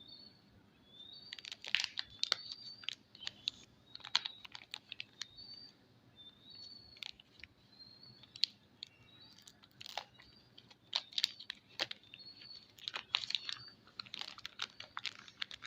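Packaging being handled and opened during soap unpacking: irregular crinkles, taps and clicks, in clusters. Short high chirps recur throughout.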